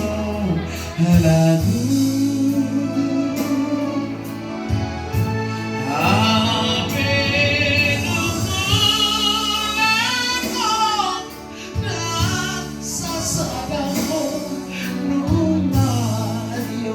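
A Batak song sung in a high voice with long, wavering held notes and heavy vibrato, climbing highest about six to eleven seconds in, over steady low accompaniment.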